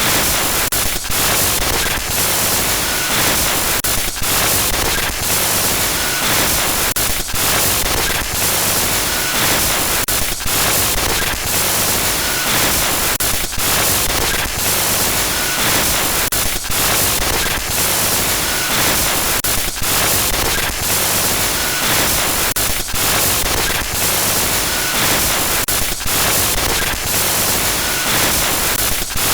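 Loud, harsh static hiss from a glitch-noise sound effect, broken by frequent brief dropouts that make it stutter.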